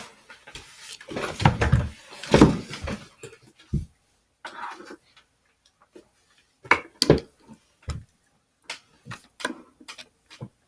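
Small plastic toy figures and playset pieces being handled and set down: a stretch of rustling and bumping in the first few seconds, then scattered sharp clicks and knocks.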